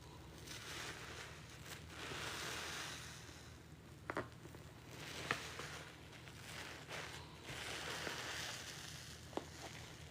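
A wet sponge squeezed over and over in pine-cleaner rinse water: swells of squishing and streaming water, each a second or two long, with a few sharp clicks in between.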